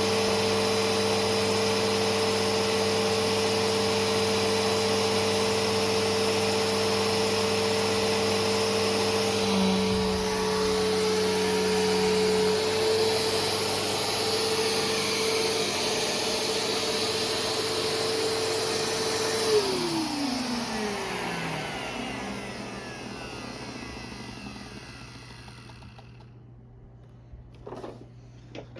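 Bissell Powerforce Helix Turbo upright vacuum cleaner running steadily, then switched off about two-thirds of the way in. Its motor whine falls in pitch and fades away over several seconds as it spins down.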